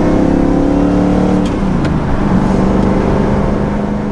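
Lamborghini Countach replica's engine running while the car is driven. Its note drops about a second and a half in, then holds steady.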